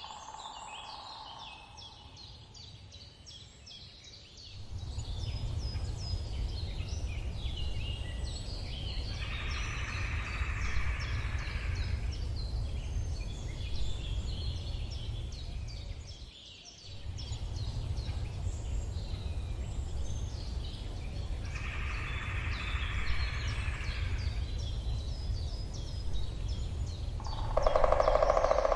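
Woodpecker drumming in short bouts of two to three seconds, four times, the loudest near the end, over a steady chorus of small birds chirping. A low rumble of background noise comes in about four seconds in.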